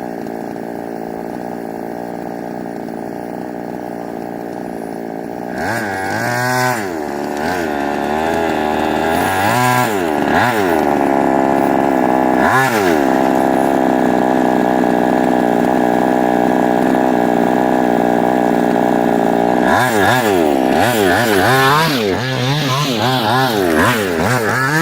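Small two-stroke petrol engine of a 1/5-scale Himoto/HSP road-race RC car. It idles steadily for about five seconds, then revs up and back down three times, runs at a steady high pitch for several seconds, and revs up and down in quick repeated blips near the end.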